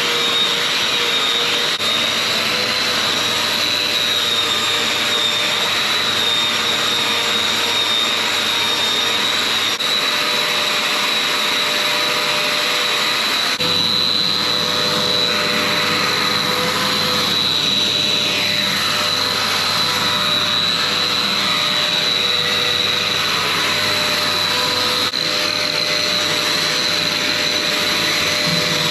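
Drywall sander with a 225 mm head sanding filled plaster walls, its hose connected to a running dust extractor: a steady, loud motor noise with a high whine. A deeper hum steps up about halfway through.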